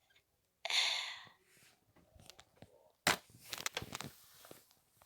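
A breathy sigh about half a second in, then about three seconds in a sudden rustle with a run of small clicks.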